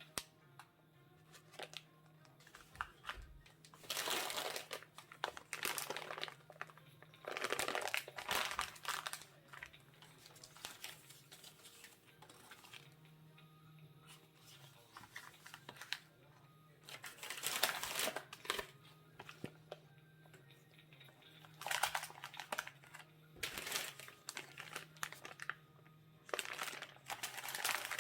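Plastic packaging crinkling in several separate bouts, with a faint steady low hum underneath.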